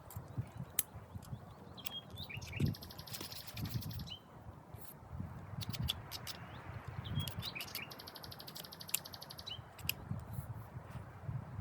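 Small woodland birds chirping, with short sliding calls and two rapid high trills, one about three seconds in and one about eight seconds in. Scattered sharp clicks and a low irregular rumble sit underneath.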